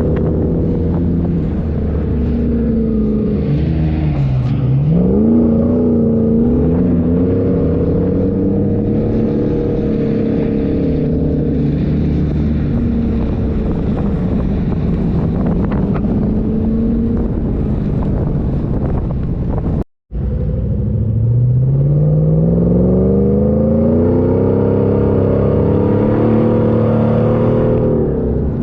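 A 4x4's engine under load, its revs falling sharply and climbing back about four seconds in. The sound cuts out for a moment about two-thirds through, then the revs climb steadily again.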